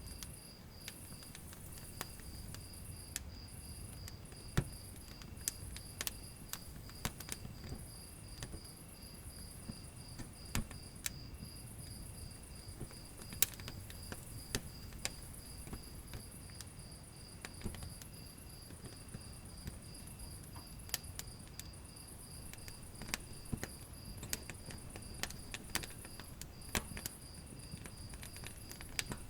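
Wood fire in a fireplace crackling, with irregular sharp pops and snaps scattered throughout over a low rumble of flames. Underneath runs a steady, rapidly pulsing high chirping of insects.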